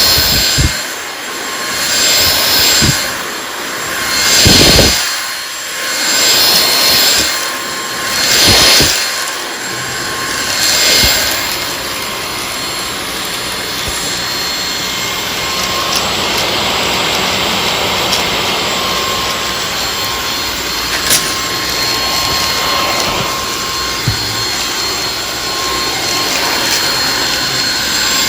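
WowGo cordless stick vacuum with a motorized brush head running while it is pushed over the floor picking up dirt: a steady motor whine and rush of air. For the first ten seconds the sound swells and falls about every two seconds, then holds steady.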